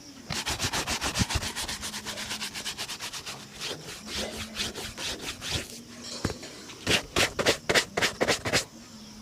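A shoe being buffed by hand with rapid back-and-forth strokes, about seven a second. The strokes slow, pause briefly past the middle, then come back louder near the end.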